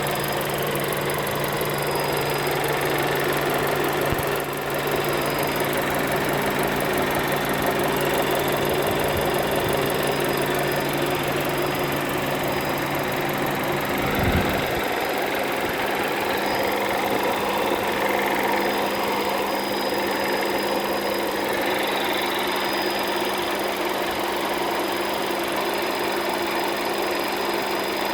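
VW Golf 7 1.2 TSI turbocharged four-cylinder petrol engine idling warm, with a steady high-pitched whine or whistle from the engine bay over the running engine. About halfway through there is a short thump and a low hum underneath drops away, while the high whine carries on.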